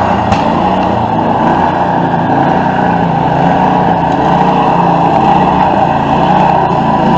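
Small gasoline engine on outdoor power equipment running steadily, with no change in speed.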